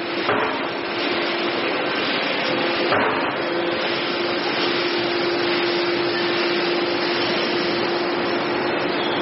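Y81/F-160 hydraulic scrap baler running: steady machine noise with a steady whine, and two short knocks, one just after the start and one about three seconds in.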